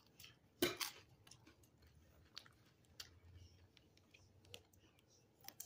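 Close-up eating sounds from a crispy fried flauta: one sharp crunch about a second in, then faint, scattered chewing clicks.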